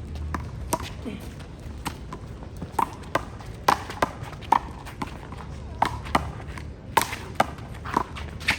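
A handball rally: the rubber ball is slapped by hands and smacks off the wall and the court, about a dozen sharp hits and bounces at an uneven pace.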